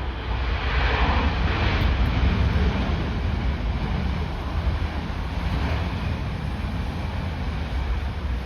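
Storm-force wind buffeting the microphone as a loud, gusty rumble, with a louder rushing swell about a second in.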